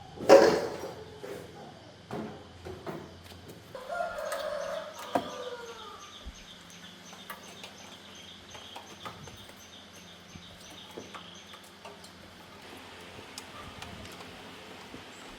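A loud clatter right at the start, then a bird's call that arches downward about four seconds in, followed by fast, regular high chirping for several seconds.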